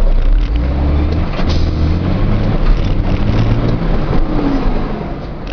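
Truck engine running under way, heard from inside the cab as a steady low rumble whose pitch shifts a little.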